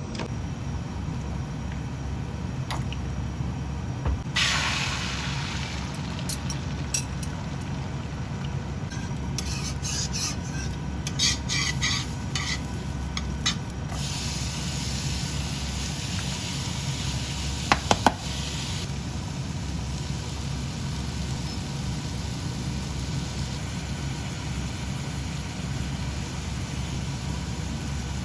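Cooking in a pan: a utensil stirring and scraping with scattered clicks, and some sizzling, over a steady low hum.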